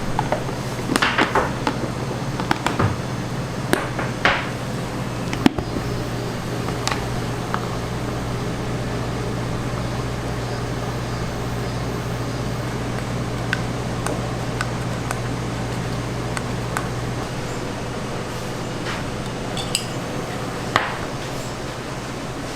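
Scattered clinks and knocks of kitchen utensils and dishes over a steady low machine hum. The knocks come thickest in the first few seconds, with a few more near the end. The hum eases off about three-quarters of the way through.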